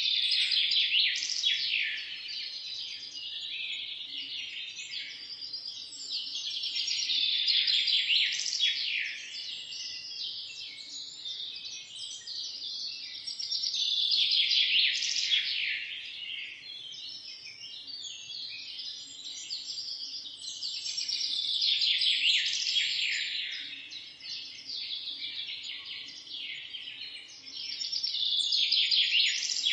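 Many small birds chirping and twittering together in a dense chorus, swelling louder and fading back about every seven seconds.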